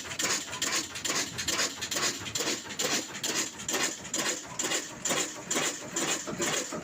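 Lahore-made Ruston-type diesel engine running steadily, its slow, even exhaust beat coming about two to three times a second.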